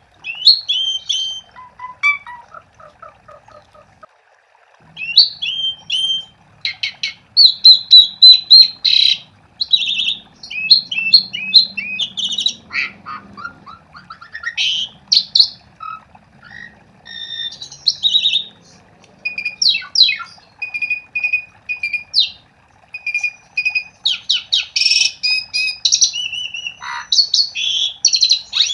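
Asian pied starling (jalak suren) singing: a varied run of whistles, chattering and harsh squawky notes, delivered in quick phrases with short pauses between them.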